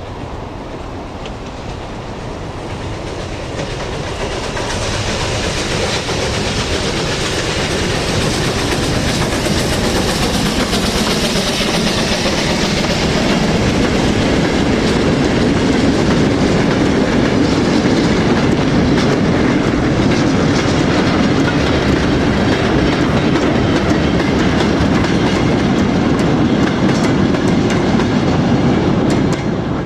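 Steam-hauled train approaching and running past, its wheels clattering over the rail joints. It grows louder over the first fifteen seconds, stays loud, then cuts off abruptly at the very end.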